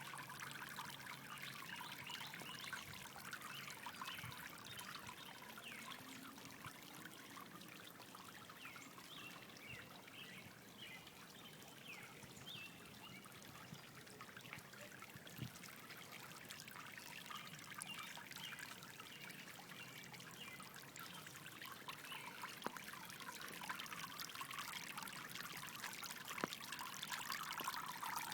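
Small solar-powered garden water fountain trickling steadily.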